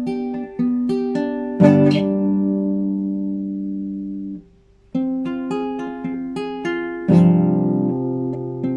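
Classical guitar played solo in free improvisation: a few plucked notes, then a full chord that rings and is damped a little after four seconds. After a short pause comes a quicker run of single notes and another ringing chord about seven seconds in.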